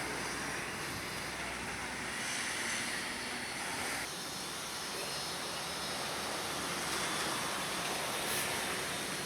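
Distant vehicle rumble that fades out about two seconds in, under a steady outdoor hiss.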